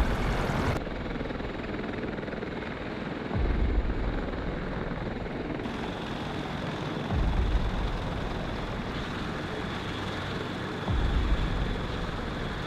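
Helicopter running steadily, with a deep low thump that swells about every three and a half seconds.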